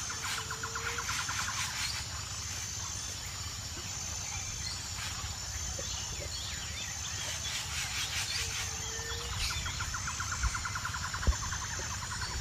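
Outdoor wildlife ambience of bird calls over a steady low background noise. A rapid pulsed trill with a short low call comes near the start and again about eight seconds later, with scattered short chirps in between.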